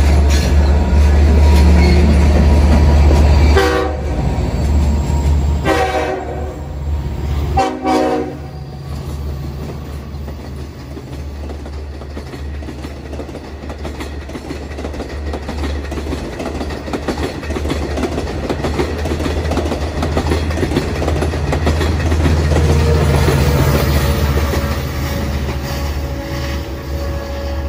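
Long Island Rail Road diesel train of bilevel coaches rolling past, with a heavy low rumble and wheels clattering over the rails. A train horn sounds three times, at about 4, 6 and 8 seconds in, the middle blast longest. The running noise then eases and swells again past twenty seconds in.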